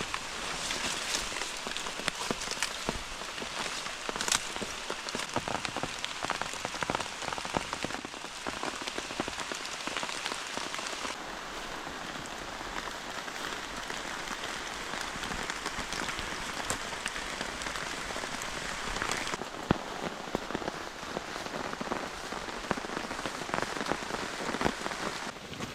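Heavy rain falling steadily in a rainforest storm, a dense hiss thick with close individual drop hits.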